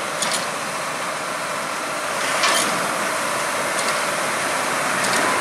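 Heavy machinery's engine running steadily during a truck recovery, with a sharp knock about two and a half seconds in.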